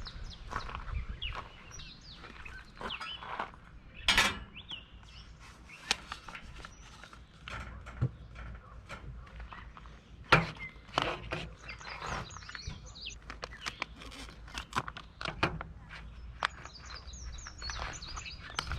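Birds chirping, with quick runs of high chirps about twelve seconds in and again near the end, over scattered sharp knocks and clicks, the loudest about four and ten seconds in.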